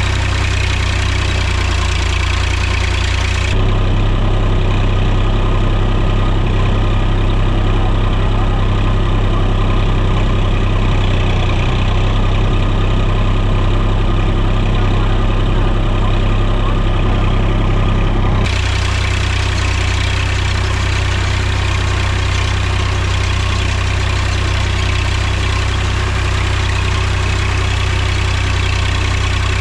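Mahindra tractor's diesel engine running steadily. About three and a half seconds in the sound turns duller and deeper for roughly fifteen seconds, then returns to its brighter earlier tone.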